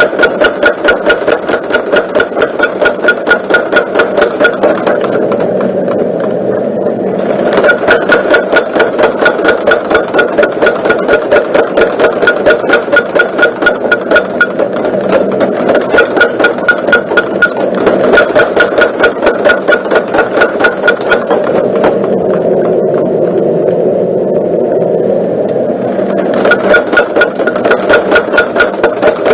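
Homemade mechanical power hammer running, its ram striking rapidly at about five blows a second in bursts, with the drive motor running steadily between the bursts.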